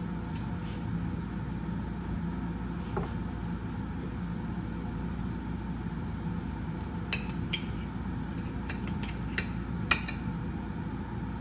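Cutlery clinking against a plate as the grilled chicken thigh is cut open to check whether it is cooked through: a few sharp clinks in the second half, over a steady low hum.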